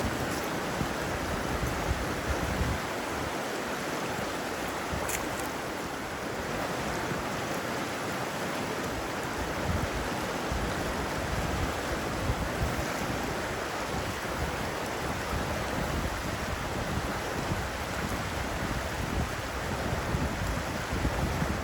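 Steady rush of river water, with wind gusting against the microphone.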